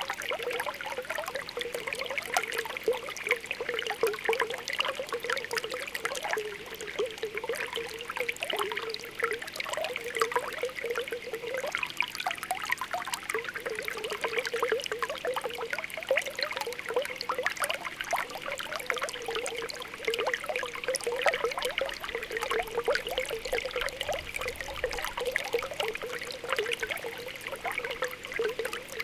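Spring water welling up out of the ground, a steady run of small popping, bubbling blips over a trickle.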